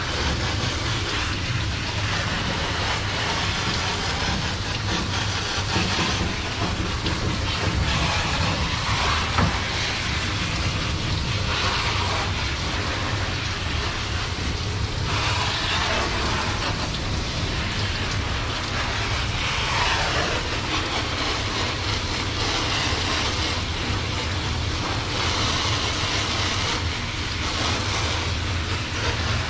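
Steady rushing hiss of a dog-wash tub's hand sprayer running water, with a low hum underneath; the hiss brightens and dulls every few seconds as the spray moves.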